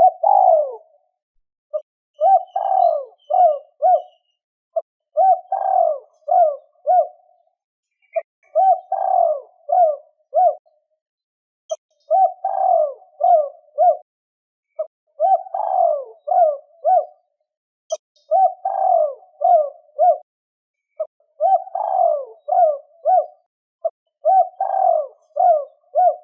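Spotted dove cooing in a repeated phrase about every three seconds: a longer opening coo followed by three or four short, clipped notes.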